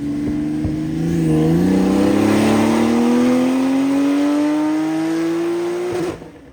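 ES700-tuned Porsche 992 Turbo's twin-turbo flat-six in a full-throttle dyno pull, its note rising steadily in pitch for about four and a half seconds, then cutting off abruptly near the end as the throttle is closed.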